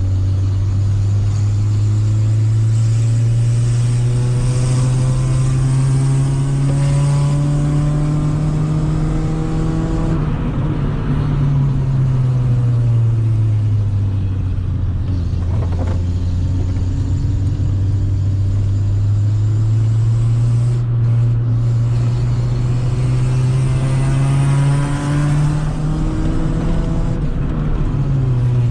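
A 1995 Honda Civic's four-cylinder engine running loud through its original exhaust, which is rusted through with holes. The engine note climbs slowly for about ten seconds, falls back, holds low for a while, then climbs again and drops near the end.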